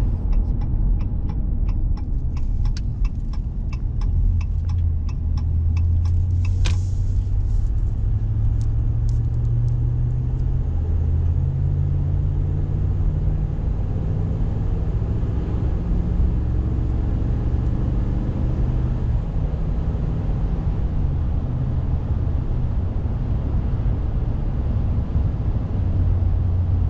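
Truck engine and road rumble heard from inside the cab while driving. For about the first ten seconds there is a regular ticking, about three ticks a second, with one sharper click about seven seconds in.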